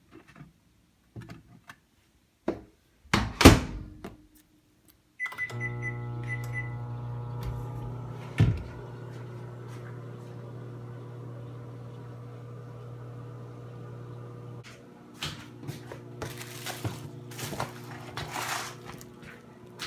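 Microwave oven: a sharp clack about three and a half seconds in, then a quick run of short keypad beeps, and the oven starts with a steady hum. A thump comes a few seconds after it starts, and light clicks and rustling follow near the end while it keeps humming.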